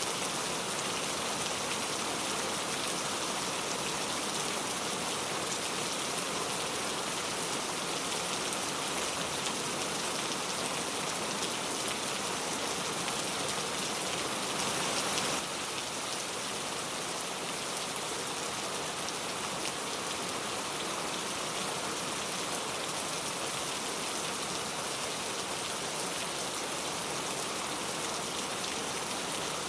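Steady rain falling as a dense, even patter of drops, becoming slightly quieter about halfway through.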